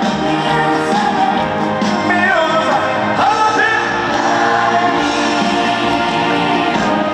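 Live trot song: singing over a full band accompaniment, played loud through a concert PA.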